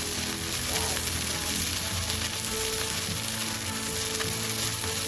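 Food frying in a pan: a steady crackling sizzle, with background music underneath.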